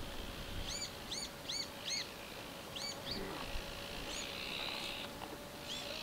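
A bird calling in short, high, arched chirps, some in quick runs of three or four, over a faint steady outdoor hiss.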